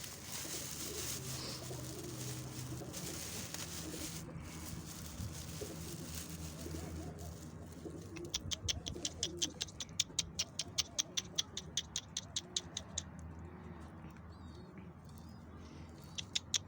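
Domestic pigeons cooing. Partway through, a fast, even run of sharp clicks, about four a second, lasts some five seconds and starts again near the end.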